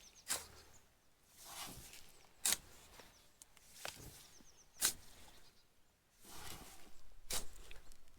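A shovel working sand: a sharp scrape-and-strike about every two and a half seconds, four times, with softer shuffling swells between strokes.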